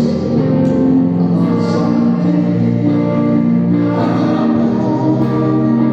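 Gospel music: a congregation or choir singing over instrumental accompaniment, with held notes that change chord every second or two.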